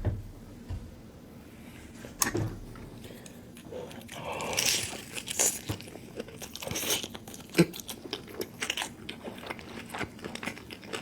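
Close-miked eating: a sharp bite into crunchy food about two seconds in, then crisp crunching and chewing.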